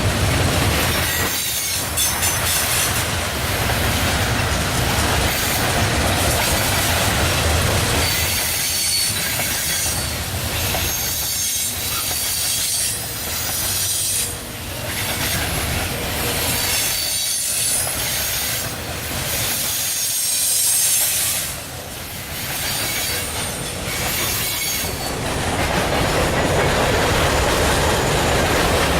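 Train cars rolling past at track side: steady rumble and clatter of steel wheels on rail, with a thin high wheel squeal coming and going.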